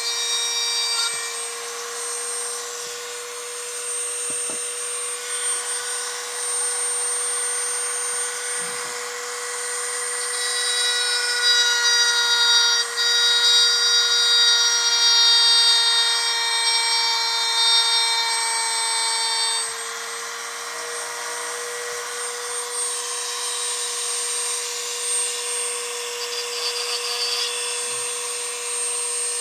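Small high-speed rotary tool running steadily with a high whine, grinding down an HO slot car chassis. The grinding gets louder between about ten and twenty seconds in.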